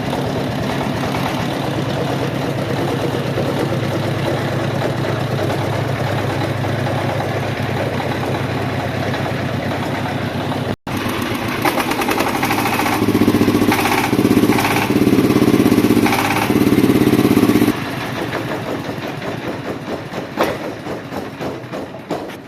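Jiang Dong JD30 single-cylinder diesel engine running steadily. After a break about 11 s in, it runs faster and louder for a few seconds, then slows and winds down, its separate firing beats fading near the end as it stops.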